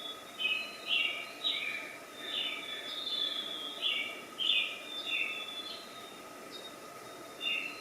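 Small birds chirping: short falling chirps repeated about once or twice a second, over a steady background hum.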